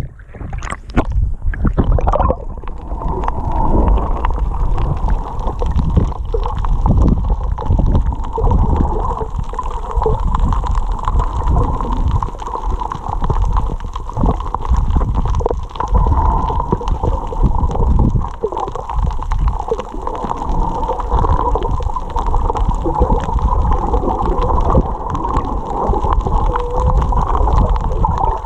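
Muffled water noise from a snorkeler's camera at or under the surface: uneven sloshing and gurgling over a heavy low rumble, with a steady hum running through it.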